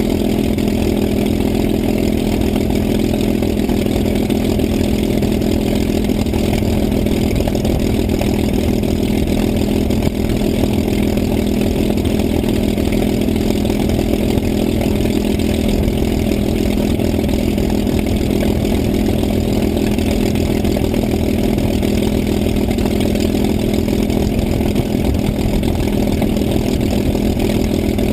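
An engine running steadily at idle: a constant low hum that does not change in pitch or loudness.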